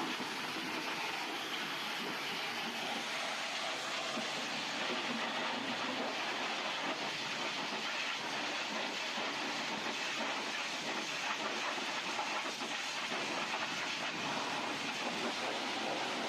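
Steady rushing hiss from car-wash equipment at work, even throughout with no rhythm or distinct tones.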